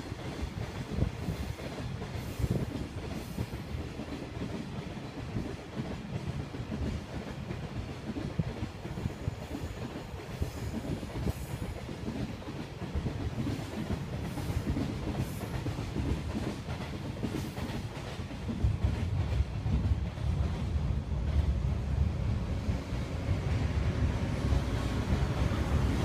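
Freight train hauled by an electric locomotive running past, its wheels clattering over the rail joints in a steady rumble. The rumble grows clearly louder about two-thirds of the way in.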